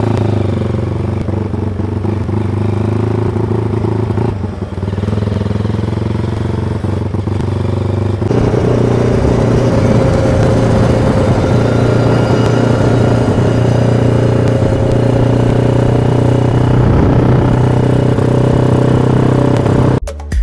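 Yamaha RXZ two-stroke motorcycle engine running under way, with a short dip about four seconds in, then louder and steady from about eight seconds in.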